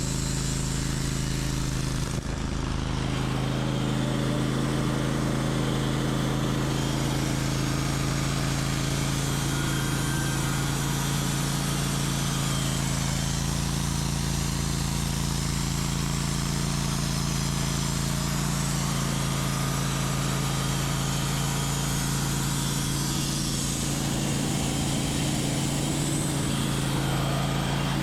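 Portable sawmill running steadily under load: the engine holds a constant pitch while the blade cuts a slab from an oak log, with a continuous hiss of sawing.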